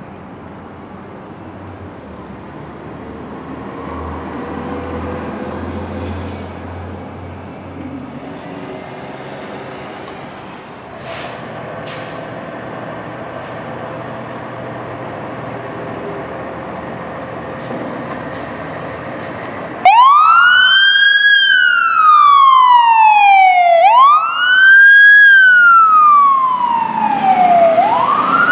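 Low traffic and engine rumble for about twenty seconds, then a 2021 Pierce Enforcer fire engine's siren comes on suddenly and loud, wailing: each cycle rises quickly and falls slowly, about every four seconds.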